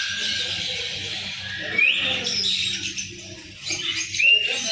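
A crowd of small birds chirping and chattering continuously, with sharp rising calls about two seconds in and again near the end, over a faint steady low hum.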